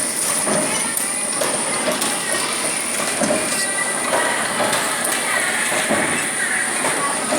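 SUGANO die-cutting press running: continuous mechanical clatter with repeated clicks over a steady high whine.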